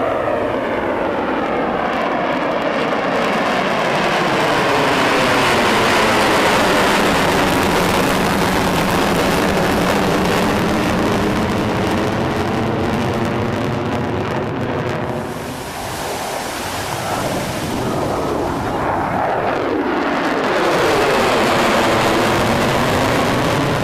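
Aircraft flying past overhead, a loud continuous engine noise whose pitch sweeps as it passes. It is loudest about six seconds in, dips briefly around sixteen seconds, then swells again near the end.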